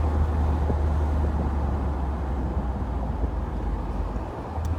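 Mercedes-Benz R129 500SL's 5.0-litre V8 with its mufflers deleted, giving a steady low exhaust rumble while cruising at low town speed, heard from the open cabin with the top down. The rumble eases slightly to a dip about four seconds in, then picks up again.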